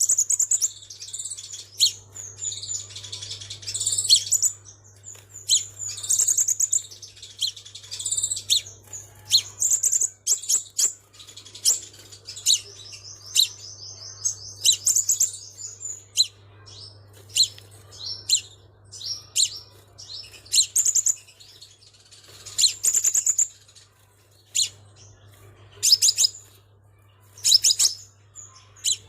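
Crimson sunbird singing: a long run of short, high, sharp chirps with a rapid trill about halfway through, over a faint steady low hum.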